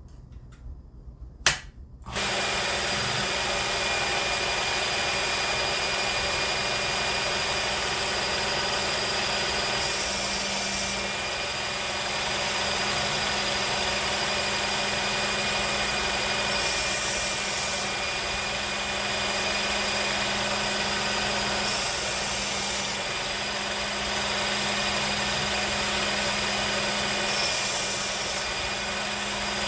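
A click, then an electric belt sharpener starts about two seconds in and runs steadily with a leather strop belt loaded with polishing compound. Four short hissing passes come as a knife blade is stropped on the moving belt.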